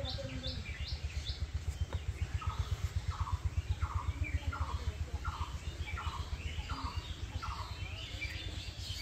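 Several birds calling outdoors: a quick series of high chirps at first, then a short lower note repeated about every half second for several seconds, with other chirps scattered around them. A steady low rumble runs underneath.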